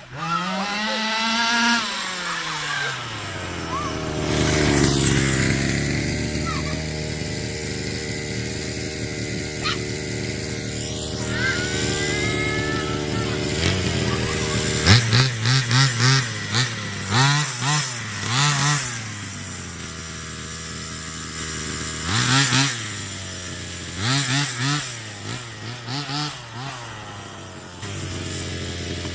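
Small 45cc two-stroke engine of a 1/5-scale Rovan Baja RC car, its carburettor's top end just set leaner, running and revving. The pitch rises and falls, then holds steadier. From about halfway it is blipped in a series of quick, sharp rev bursts, with a few more bursts near the end.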